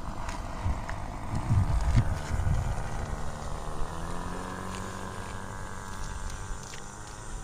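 OS 55 two-stroke glow engine of a radio-control model airplane in flight, a steady buzz whose pitch slowly drifts up and down. Wind buffets the microphone with low rumbles about one and a half to two and a half seconds in.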